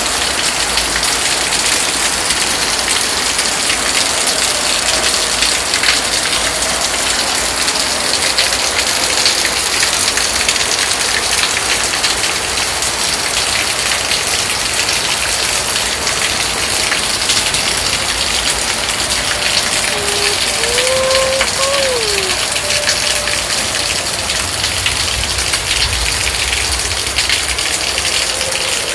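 Heavy rain falling steadily and splashing on hard surfaces. About two-thirds of the way in, a brief wavering tone rises and falls.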